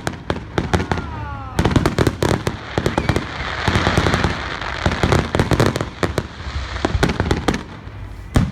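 Aerial fireworks display: a rapid, continuous barrage of booms and bangs, with a dense crackling hiss swelling in the middle.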